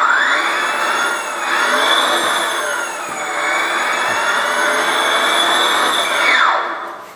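Brammo Empulse electric motorcycle's motor whining as it is throttled up: a high whine that sweeps up sharply at the start, dips and climbs again a couple of times, then falls in pitch and stops near the end, with a thin high electronic tone over it.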